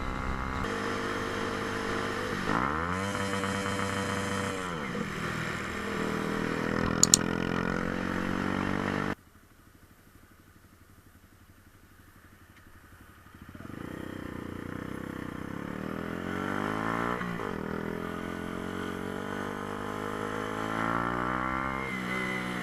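Motorcycle engine running and revving, its pitch rising and falling through gear changes, with two sharp clicks about seven seconds in. About nine seconds in the sound cuts off suddenly to a much quieter hum for about four seconds, then the engine returns and keeps running with more rises and falls in pitch.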